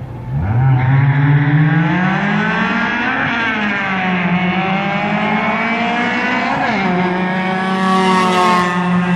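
Honda Civic EG four-cylinder engines at full throttle from a launch, the pitch climbing through the revs, dropping at an upshift about three seconds in and again near seven seconds, as the cars race past.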